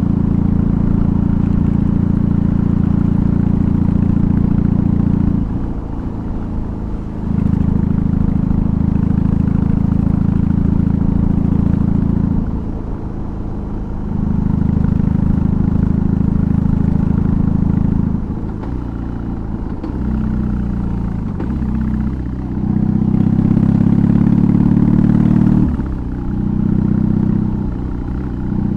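BMW R18's 1802 cc boxer twin, fitted with a custom exhaust, running at a steady, low pitch under throttle while riding. Several times the throttle is rolled off, so the sound drops for a second or two, then picks up again as the bike pulls.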